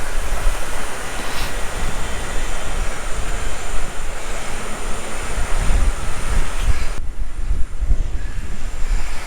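Wind buffeting the microphone: a loud, steady rushing with an irregular low rumble that swells and dips in gusts.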